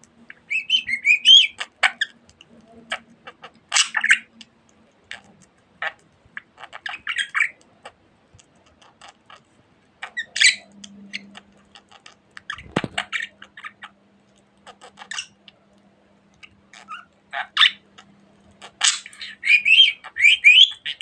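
Pet budgerigar chirping and chattering in short bursts of squeaks and warbles, with small clicks between them and a single knock about 13 seconds in.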